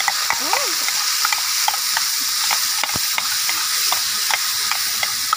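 Blended spice paste frying in hot oil in a wok, stirred and scraped with a wooden spatula: a steady sizzling hiss with frequent small pops and clicks.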